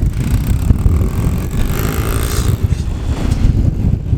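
Vehicle engine running while driving, with heavy wind buffeting on the microphone and a hiss of tyres or gravel noise for the first couple of seconds.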